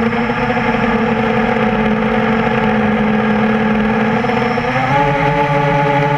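Whine of a quadcopter's four brushless motors (Tiger Motor MT-2212 1100kv) spinning 8-inch props, heard from the airframe. The pitch drops as the throttle is pulled back, holds lower for about four seconds, then climbs again as the throttle comes back up about five seconds in.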